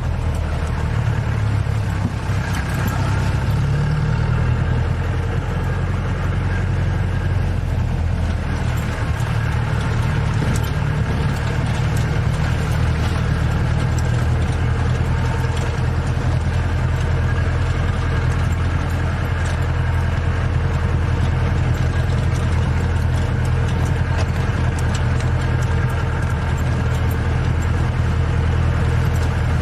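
Engine of a safari vehicle running steadily, a constant low engine hum with road and body noise over it.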